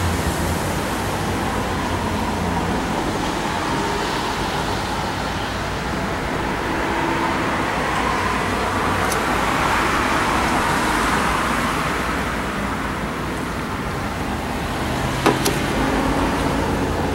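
Steady road-vehicle noise that swells and fades about ten seconds in, as a passing car does, with a sharp click near the end.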